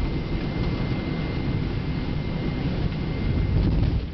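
Boeing 777-300 flight-deck noise during the landing rollout: a steady low rumble of the airliner on the runway, swelling slightly near the end, with a faint steady high tone that stops shortly before the end.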